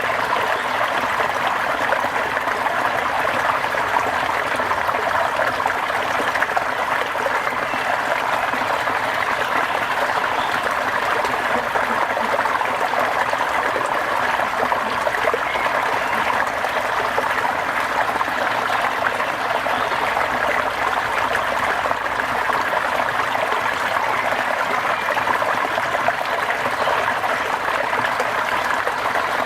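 Steady rain falling: a continuous, even hiss of water that holds the same level throughout.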